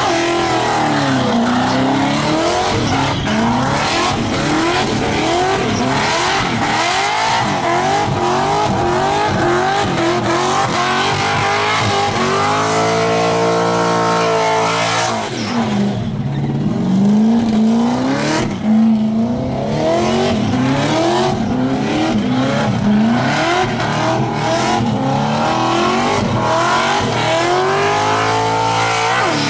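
Supercharged V8 of a Holden VK Commodore revving hard in a burnout, its revs climbing and falling over and over, with the rear tyres spinning and squealing.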